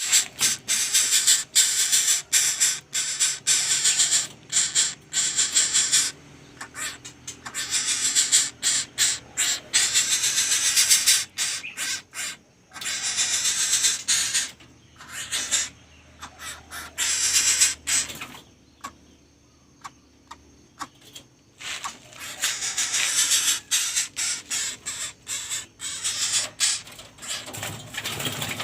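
Coucal chicks (bubut) making harsh, hissing calls, many short rasps in rapid runs broken by brief pauses.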